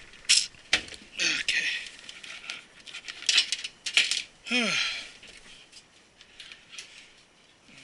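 Handling noise: a few sharp metallic clicks and clinks mixed with rustling, as the metal server case and loose paper are moved about.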